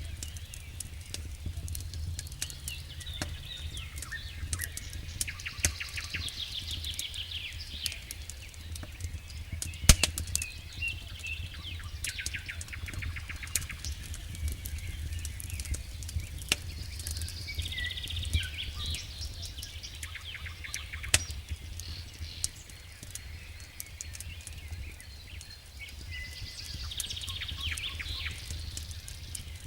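Wood fire in a fireplace crackling, with irregular sharp pops over a steady low rumble of the flames. Quick clusters of fine ticks come every few seconds, and the loudest pop is about ten seconds in.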